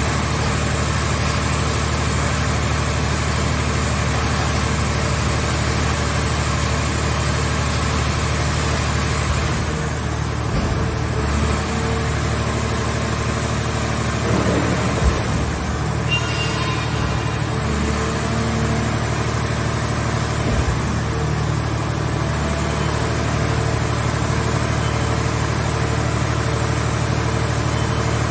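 Mobile car-shell baler's power unit running steadily, with a few short knocks partway through.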